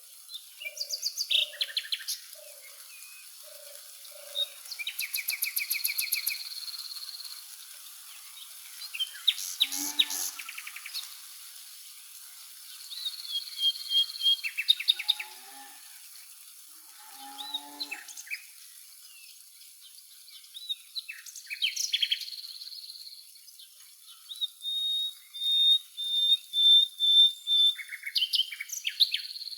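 Several songbirds singing and calling over one another in short chirped and trilled phrases, with a run of short low notes in the first few seconds. A steady high hiss runs underneath.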